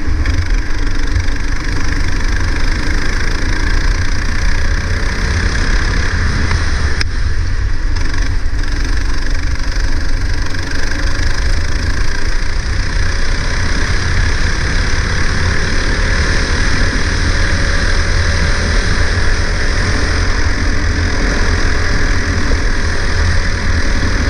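Go-kart engine running at speed, its revs rising and falling slowly over several seconds as it goes through corners and straights. A heavy low rumble and a steady hiss sit underneath it.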